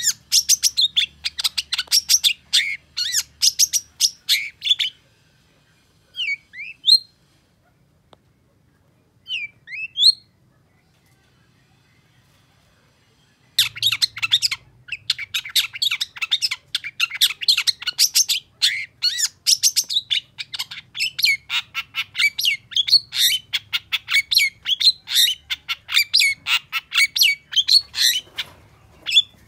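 Long-tailed shrike (cendet) singing a fast, loud chattering song of rapid high notes. It breaks off after about five seconds to a few short sliding calls and a pause, then bursts back into dense rapid song about halfway through.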